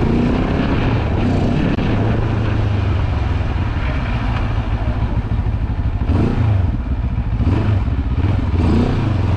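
Benelli TRK700's water-cooled 693cc two-cylinder engine running at low revs while the motorcycle is ridden slowly. Three short rises in engine pitch come in the second half as the throttle is opened and closed.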